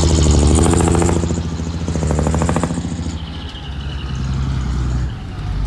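Diesel engine of a heavy earthmoving machine running, louder over the first three seconds, then settling to a lower, steadier note.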